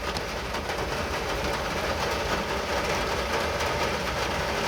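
Steady rain falling, with many small drops striking surfaces over a low rumble.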